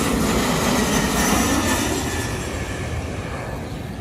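Jet airliner on approach to land passing overhead, its engines making a loud, even roar that slowly fades away over the last couple of seconds.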